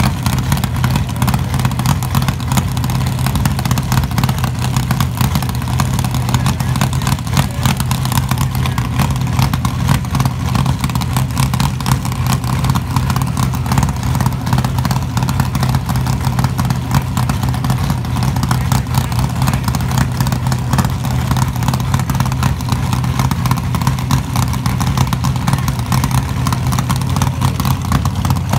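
Drag racing car's engine running loud and steady, held at one constant speed.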